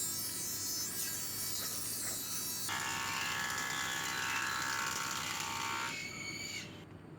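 High-pitched whine of an electric woodworking machine surfacing old wood, in a few abruptly cut segments. It stops near the end.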